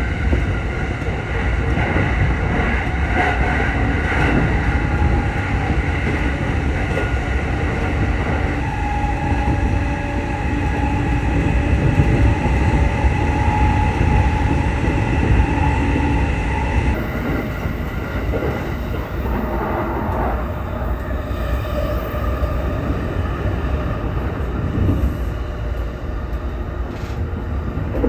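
Electric local train running along the track, heard from inside the front car: a steady rumble of wheels on rail with a whine whose pitch changes partway through.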